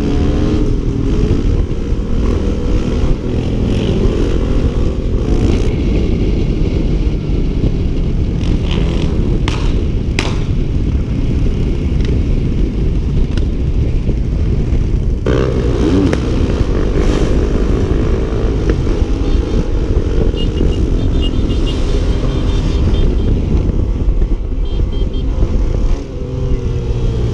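Dirt bike engine running under a heavy low rumble, its pitch rising and falling with the revs near the start and again about fifteen seconds in.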